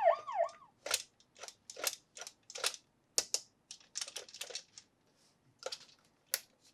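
An electronic toy siren wails for its last moment and cuts off in the first second. It is followed by irregular sharp clicks and taps of hard plastic toy parts being handled, about fifteen in a few seconds, with short quiet gaps between them.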